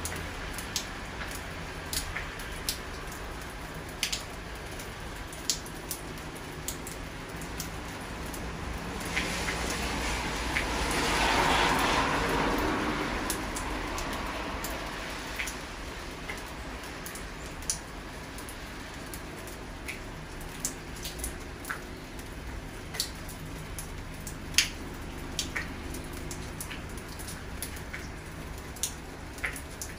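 Steady rain falling, with irregular sharp drips of water landing close by. Partway through, a rush of noise swells and fades over about five seconds.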